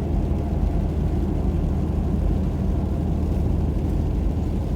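Steady low rumble of a car's engine and tyres on a snow-covered road, heard from inside the moving car's cabin.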